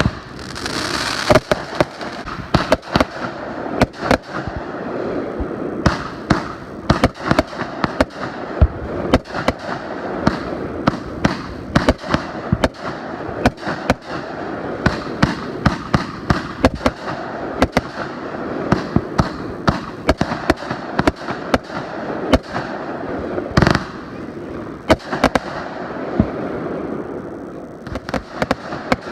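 Fireworks going off in a continuous barrage: dozens of sharp bangs and cracks over a steady crackling hiss, with one especially loud bang about two-thirds of the way through.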